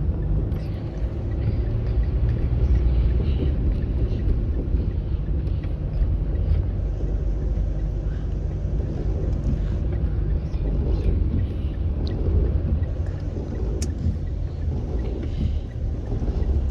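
Car running with a steady low rumble of engine and road noise, unchanging throughout.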